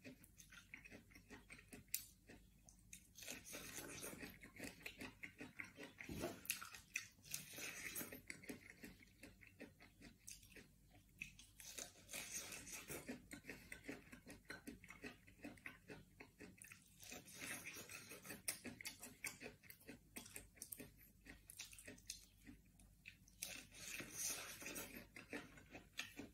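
Biting and chewing sweet corn on the cob: close, crisp crunching mouth sounds that come in spells with short pauses between them.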